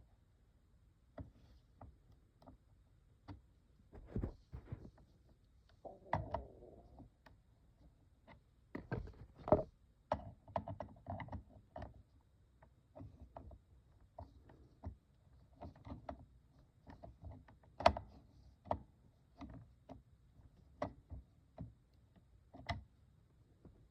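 Irregular clicks and knocks of small plastic toy parts being handled and fitted, with a brief scraping sound about six seconds in.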